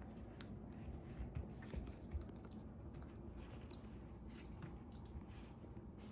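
Shiba Inu puppy chewing and gnawing, with faint irregular crunches and clicks and a few louder knocks in the first couple of seconds.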